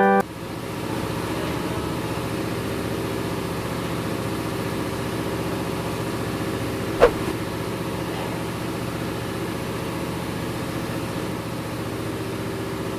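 Engine-room machinery aboard a tugboat running steadily at a constant pitch, with a single sharp metallic knock about seven seconds in.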